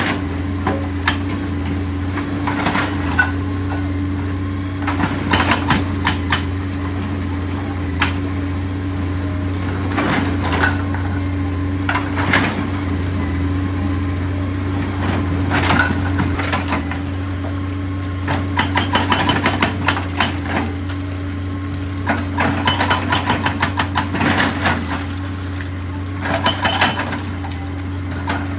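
Excavator's diesel engine running steadily under a stream of hard knocks of steel on rock, several coming in short quick runs of rapid strikes.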